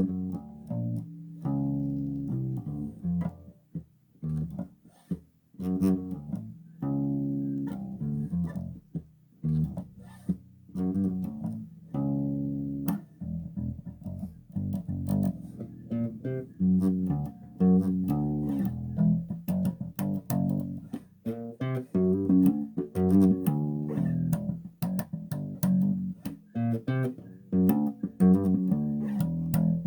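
Bass guitar played solo: single plucked notes, slow with short gaps at first, then a busier run of quicker notes from about halfway through.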